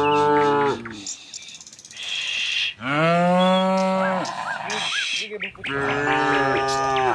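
Domestic cattle mooing: three loud moos, the middle one the longest.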